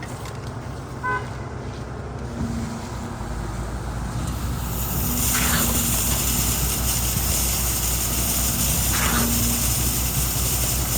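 Heavy truck engine running at a concrete pour, its rumble growing louder about four seconds in as a hiss joins it. There is a short beep about a second in.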